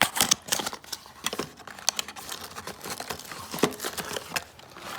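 Small plastic parts and packaging being handled: irregular clicks, taps and crinkling as the pieces of the smart garage opener kit are picked up and sorted.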